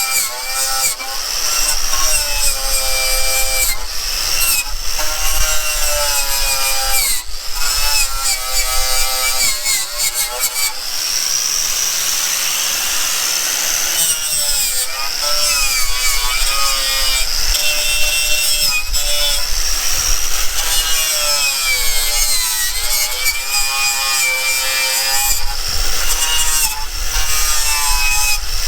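A power tool spinning a wire wheel against metal to scour out deposits, its pitch sagging and recovering as it is pressed in and eased off.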